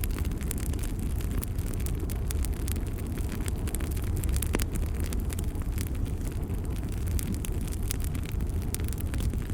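Bonfire burning: wood crackling and popping irregularly over a steady low rumble.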